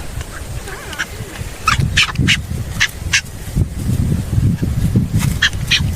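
Booby calling: runs of short, sharp calls, the first run about two seconds in and another near the end, over a low steady rumble.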